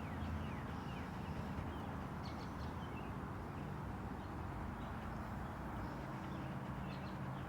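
Faint steady background with a low hum, and brief high chirps or squeaks now and then.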